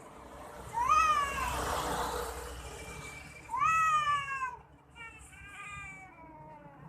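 Cats yowling in a fight: two loud drawn-out yowls about three seconds apart, each rising and then falling in pitch, followed by fainter shorter yowls.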